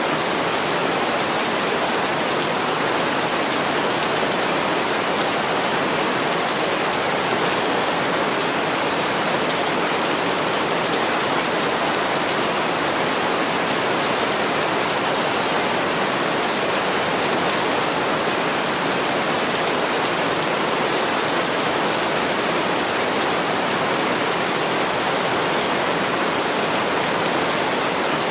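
Heavy rain pouring steadily onto a window, an even hiss with no let-up.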